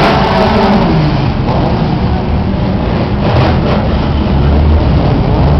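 Several modified Chevrolet Opala drag cars running at once, a loud mix of idling and revving engines; one engine's rev falls away in the first second, then a steady heavy rumble.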